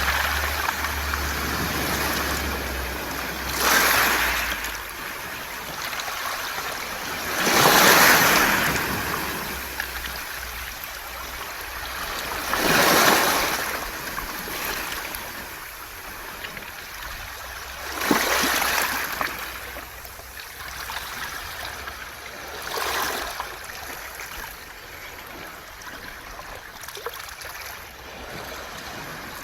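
Waves washing in over a beach of smooth round pebbles about every five seconds, each swell fading into the hiss and rattle of pebbles as the water drains back.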